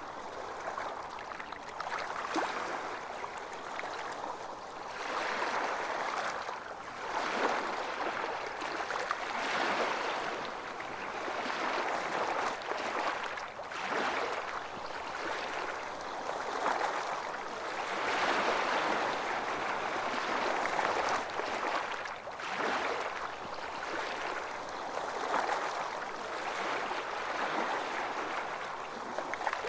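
Small waves washing in on a beach: a steady hiss of water that swells and eases every few seconds.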